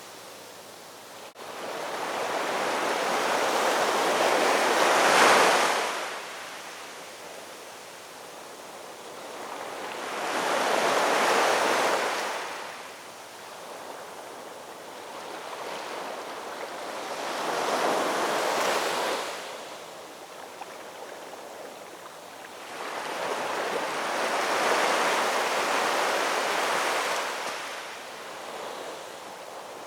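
Ocean waves washing in, four in turn, each swelling to a rush and falling back over a few seconds; the first is the loudest.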